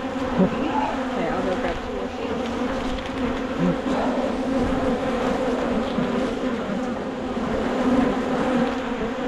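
Many honeybees buzzing around an opened hive, a dense mass of overlapping, wavering hums. The colony is defensive and agitated, as bees are late in the season.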